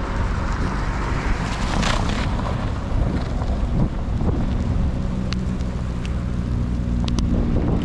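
A vehicle driving, with a steady engine and road-noise drone. There is a brief louder rush of noise about two seconds in, and a few light clicks.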